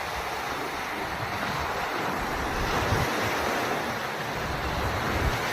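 Sea surf washing onto the shore, with wind buffeting the microphone in uneven low rumbles.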